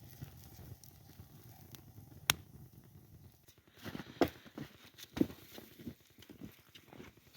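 Wood campfire crackling, with a few sharp pops: one about two seconds in and a cluster around four to five seconds in.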